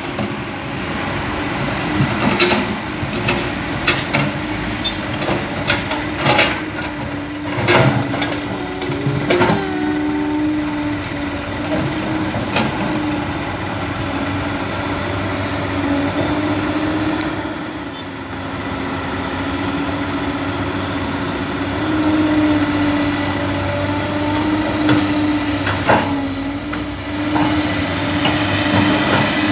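Small electric motor of a toy truck whining steadily, its pitch wavering slightly as it labours, with scattered clicks and knocks, most of them in the first half.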